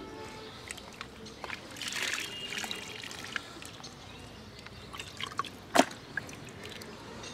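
Water sloshing and dripping, with scattered small splashes and one sharp smack nearly six seconds in.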